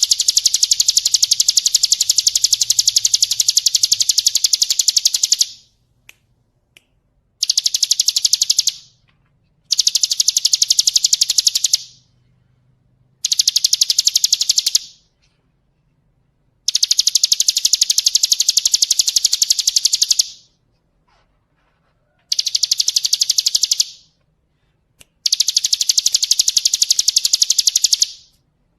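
A songbird's fast, harsh rattling trill, high-pitched, given in seven bursts of one to five seconds with short silent gaps between.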